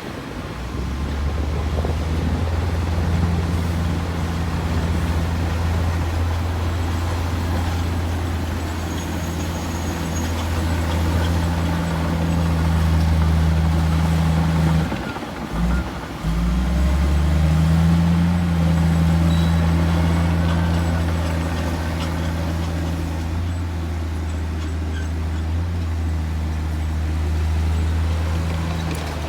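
Heavy diesel engine of earthmoving machinery running steadily, a deep drone with a brief break about halfway through.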